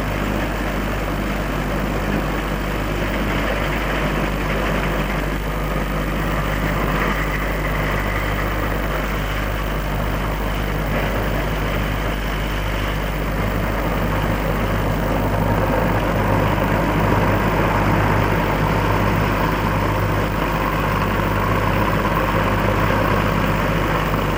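Massey Ferguson 510 combine harvester's diesel engine running steadily, getting a little louder in the second half.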